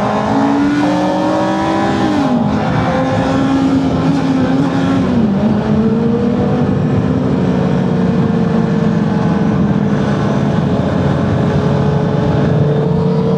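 Honda CBR650R's inline-four engine under way, climbing through the revs and dropping sharply in pitch twice, about two and five seconds in, with the upshifts, then holding a steady, slowly rising note. A constant rush of wind noise runs underneath.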